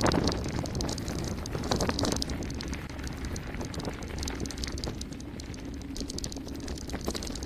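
Mountain bike descending a rough gravel road at speed: tyres rattling over stones, the bike clattering, and wind buffeting the microphone, with harder jolts at the start and about two seconds in.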